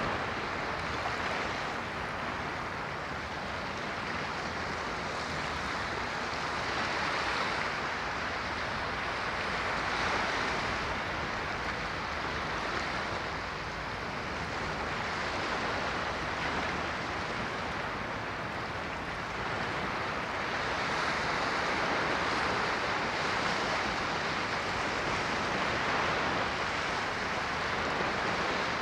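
Ocean surf washing in continuously, the rush of the waves swelling and easing gently every few seconds.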